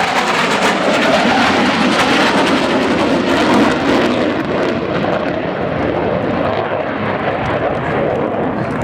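Panavia Tornado GR4 jet flying a display pass, a loud steady roar of its twin turbofan engines. The high hiss drops off about four seconds in while the low roar carries on.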